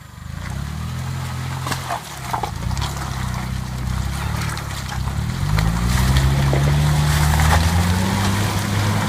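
Car engine working in four-wheel drive on a rough road, its pitch rising about halfway through and holding higher under load, with occasional light knocks.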